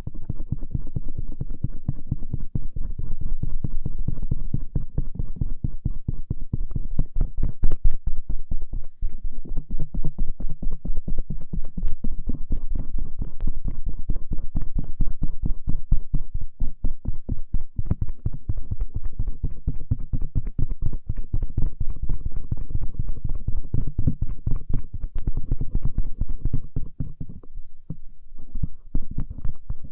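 Stainless-steel ear pick scraping and rubbing over the outer ears on both sides, close to the microphone, in rapid, steady, repeated strokes that sound deep and muffled. There is a short lull near the end.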